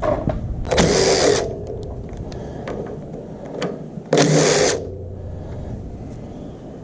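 Impact wrench fired in two short bursts, about three seconds apart, backing out the screws that clamp the drive pulley on the engine shaft.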